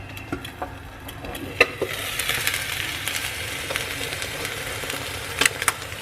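Food sizzling hard in a hot pan, starting about two seconds in, with a few sharp knocks of a utensil against the pan, the loudest near the end.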